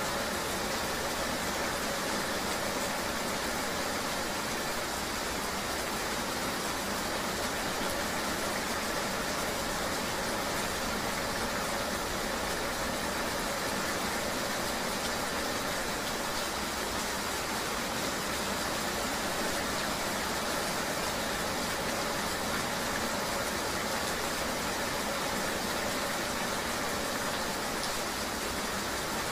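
Steady ambient rain and road noise of riding in the rain: an even hiss with a faint low hum beneath it.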